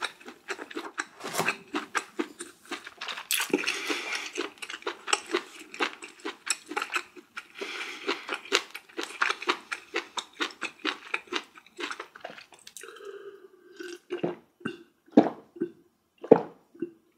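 Close-miked mukbang eating: a person chewing food with quick, wet crunching strokes for about twelve seconds, then slowing to a few separate louder smacks near the end.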